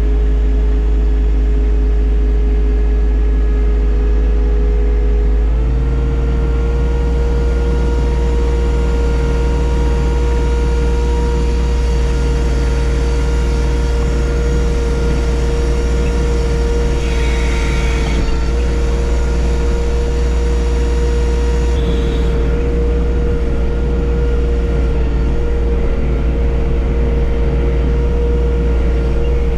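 John Deere 1025R subcompact tractor's three-cylinder diesel engine running steadily. Its speed steps up slightly about six seconds in and then holds.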